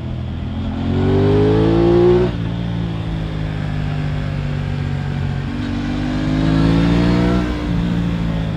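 Aprilia RS 660's parallel-twin engine on a ride, accelerating twice. Each time the engine note rises in pitch for a second or two, then drops sharply.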